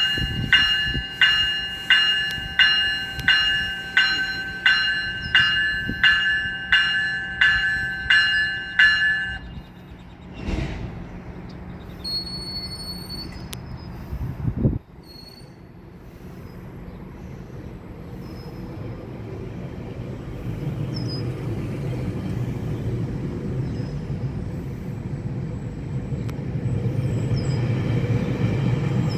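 A GO commuter train departing: a bell-like warning signal rings about one and a half times a second for roughly nine seconds, then brief clanks and a short high squeal. After that the diesel locomotive and cars start to rumble, growing steadily louder as the train pulls out.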